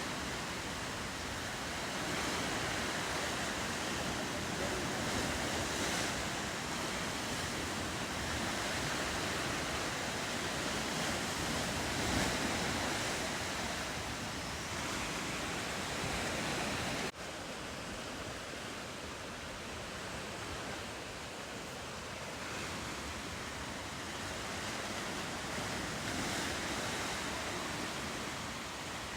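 Ocean surf washing steadily against the coast, with wind on the microphone. The sound drops suddenly a little over halfway through and carries on slightly quieter.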